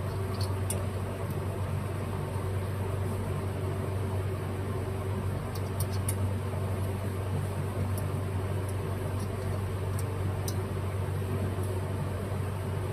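Steady low machine hum in a workshop, with a few faint light clicks of small metal carburetor parts being handled and fitted, about half a second, six seconds and ten seconds in.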